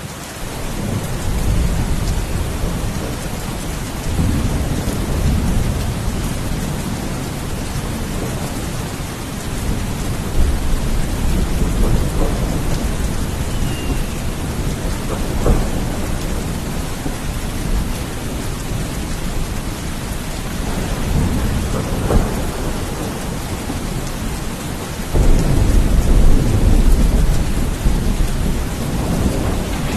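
Steady rain with rolling thunder rumbling underneath, rising and falling, then swelling much louder about 25 seconds in.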